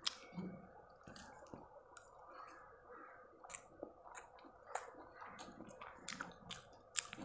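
A person chewing a mouthful of noodles with closed lips: faint, irregular wet clicks and squishes of the mouth.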